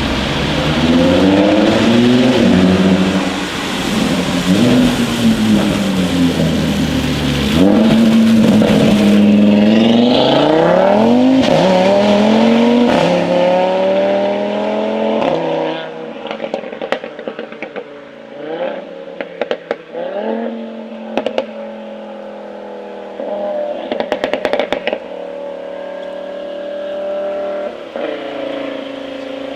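Audi RS3 8V's turbocharged 2.5-litre five-cylinder engine through a straight-piped Milltek exhaust, revved repeatedly with the pitch rising and falling. About halfway through it drops to a steady idle, broken by pops and crackles from the exhaust, with a quick run of bangs near the end.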